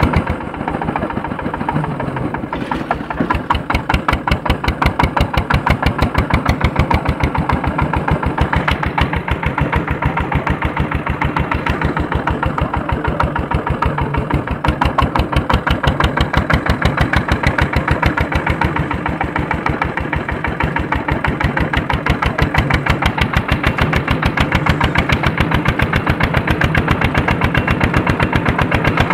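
Andoria 1HC102 single-cylinder diesel engine of a tractor running steadily under working load while harrowing, with a fast, even beat of firing strokes.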